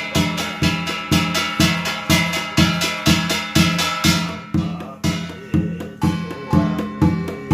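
Korean shamanic gut music: a drum beaten in a steady beat about twice a second under a held, reedy piri melody. The pipe moves to a new note about five seconds in.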